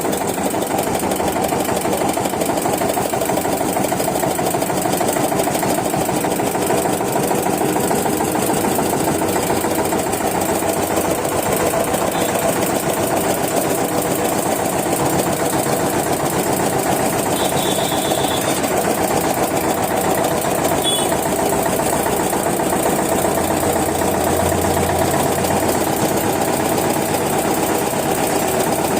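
Old Eicher tractor's diesel engine running steadily, with a rapid, even chugging.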